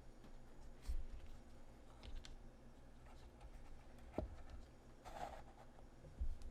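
Faint handling sounds of small craft materials on a work surface: a few soft taps and knocks with light rustling, one tap about four seconds in giving a brief ring.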